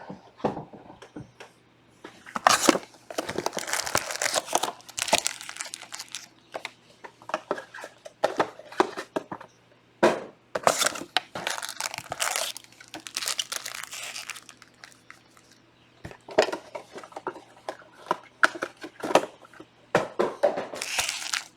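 Plastic shrink wrap on sealed trading-card boxes crinkling and tearing as it is pulled off, in several bouts of crackle with short pauses between.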